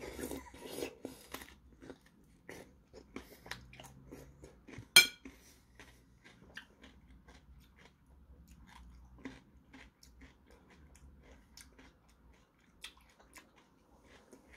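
Crisp bites and chewing of a piece of peeled Korean melon (chamoe), crunchiest in the first second and a half, then slower scattered chews. One sharp click about five seconds in.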